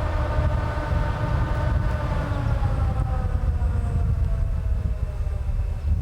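Freight locomotive moving during shunting: a low rumble under a whine that holds steady, then falls steadily in pitch from about two seconds in as it slows.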